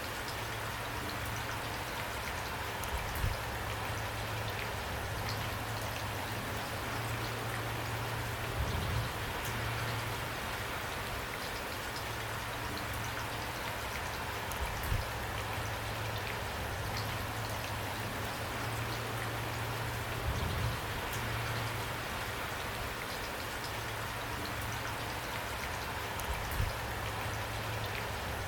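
Steady rain with a patter of individual drops, and a few louder low thuds spaced evenly through it.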